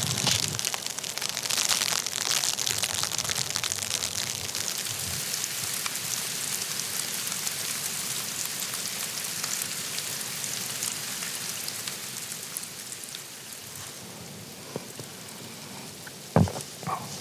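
Dense, fine patter of precipitation hitting a surface, heaviest in the first few seconds and easing off later, with a single thump near the end.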